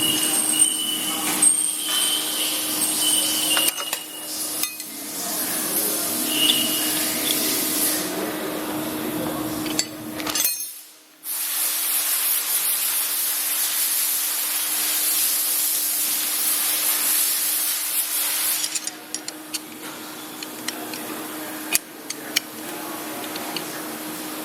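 Grinding machine's wheel spindle running: a steady hum with hiss and occasional small clicks, while it is checked for an abnormal spindle noise. The sound drops out briefly about ten seconds in, then resumes, and is quieter over the last few seconds.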